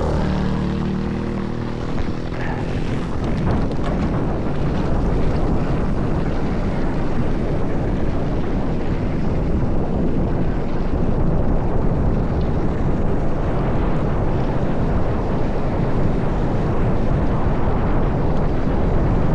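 Mountain bike going downhill on a dirt trail: steady rush of wind on the microphone mixed with tyre noise and rattling over rough ground. A pitched buzz fades out in the first couple of seconds.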